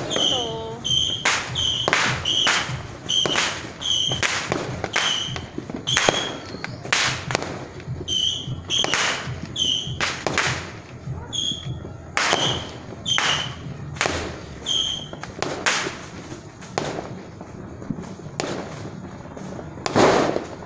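Aerial fireworks going off in quick succession: sharp bangs about once a second, many of them followed by a short high-pitched tone. The bangs thin out later, and the loudest one comes near the end.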